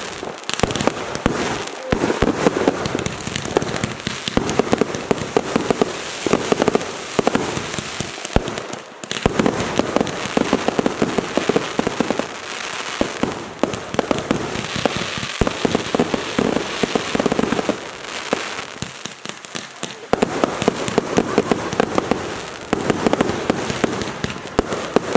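Consumer fireworks going off in a dense, continuous barrage of rapid pops and crackling, with a few louder bangs and short lulls.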